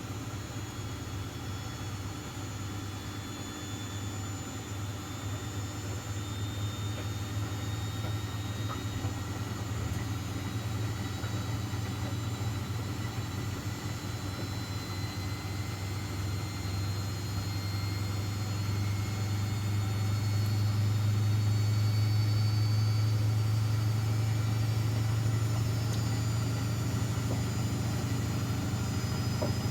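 Miele washing machines running together: a steady low hum that grows louder over the second half and then holds, with faint high motor whines above it.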